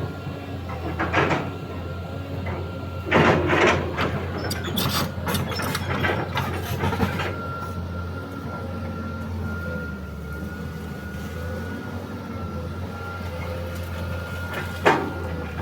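Excavator engine running steadily with a thin, steady high whine. Loud cracks and clatter come about three to seven seconds in, with one sharp knock near the end.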